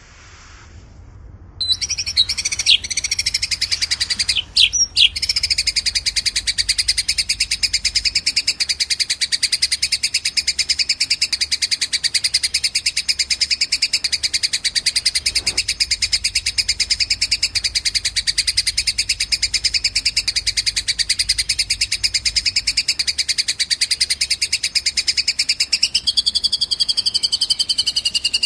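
Recorded small songbird giving a long, very rapid, unbroken high-pitched trill that starts about two seconds in. There are a few sharp sweeping notes early on and a change of pattern near the end.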